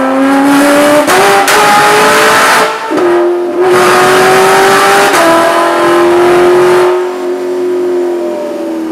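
Katech 700 hp 427 cubic-inch LT V8 in a Corvette Grand Sport, breathing through ARH mid-length headers, running hard under load in rising pulls. Its pitch breaks and resets about three times, and near the end it eases off.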